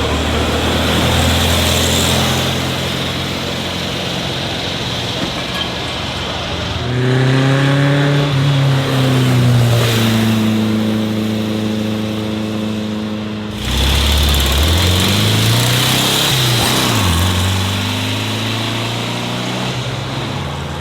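A car engine running and being revved: its pitch climbs and then holds about seven seconds in, and after a sudden change about fourteen seconds in it rises, dips and rises again before settling.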